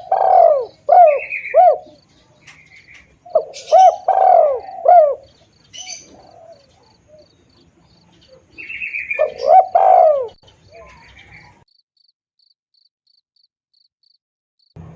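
Spotted dove (tekukur) cooing: three phrases of its rolling, repeated coo notes, several seconds apart, played as a lure call. An insect chirps steadily behind at about three pulses a second, and all sound cuts off about 12 seconds in.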